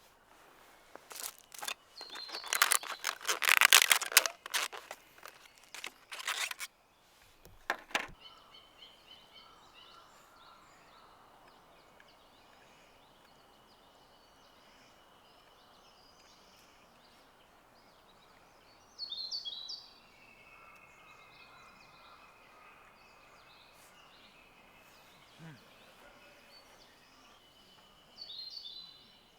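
Birds calling outdoors, with two short bursts of high calls near the middle and near the end. In the first few seconds a loud burst of dense crackling and clattering handling noise covers everything.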